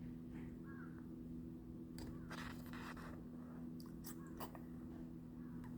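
Faint steady low hum with scattered soft clicks and crunching sounds.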